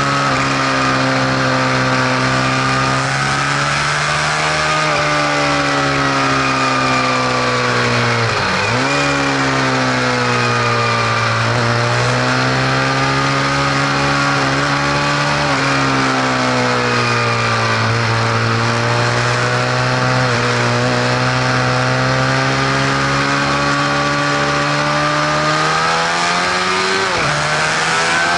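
Vehicle engine running steadily, its pitch dipping sharply and recovering about a third of the way in and again near the end.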